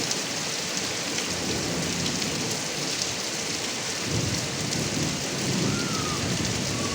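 Heavy rain pouring steadily off a roof's gutter spout, with a low rumble of thunder swelling in a little past halfway.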